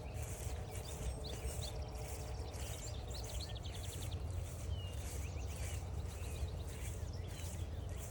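Footsteps on a trail, about two steps a second, with several birds chirping and singing, including a fast trill about two seconds in.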